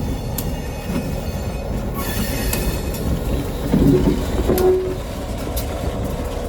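Freight train rolling along with a steady low rumble of wheels on rail and scattered clicks. A high-pitched screech comes about two seconds in.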